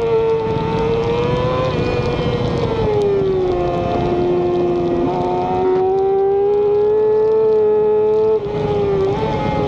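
Racing motorcycle engine held at high revs, its pitch sagging a little then climbing slowly, with a brief dip and recovery in pitch and level near the end.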